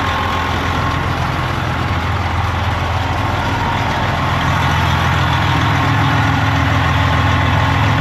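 Detroit Diesel Series 60 14-litre inline-six diesel engine idling steadily with its newly replaced fan clutch hub, a little louder from about halfway through.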